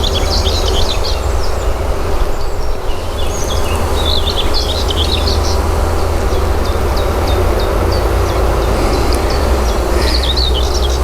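A songbird singing in short bursts of quick high twittering notes, about a second in, around four seconds in and again near the end. Underneath runs the steady hum of honeybees around an opened hive, over a constant low rumble.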